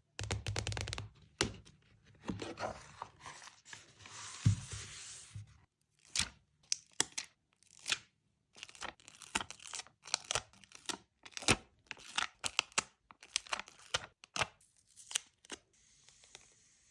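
Paper and stickers being handled close to the microphone for a collage journal: a stretch of paper tearing or peeling, then a long run of sharp crinkles and small clicks of paper.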